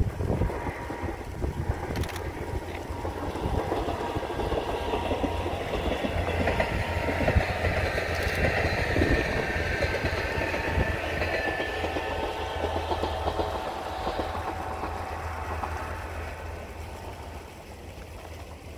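A short train running past at a distance, its rail noise swelling for a few seconds and then fading away, with a steady low rumble of wind on the microphone beneath.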